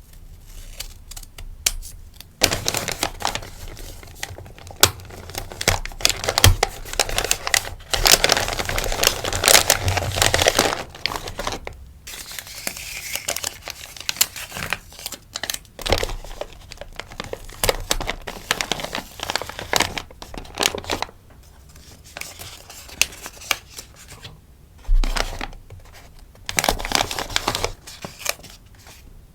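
Packaging crinkling and rustling as stickers are packed by hand, in irregular handling strokes. The crinkling is densest about a third of the way in and eases off for a few seconds near the end, where one soft low thump is heard.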